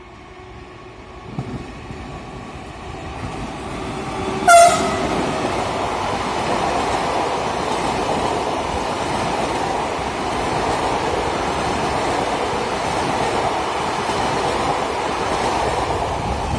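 A train approaching and running past, growing louder. About four and a half seconds in there is one short horn blast, the loudest sound, followed by the steady noise of the train running by.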